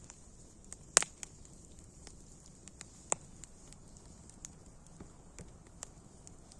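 Wood fire crackling: scattered sharp pops and snaps over a low hiss, the loudest about a second in and another around three seconds in.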